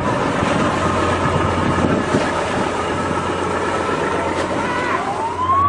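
Ship's engine and wind noise on deck, a dense steady rumble and rush. Near the end a siren starts up, rising in pitch.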